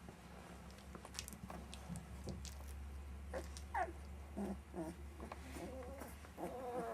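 Month-old puppies whimpering and whining in short high squeaks, with a longer wavering whine near the end, among light clicks of play.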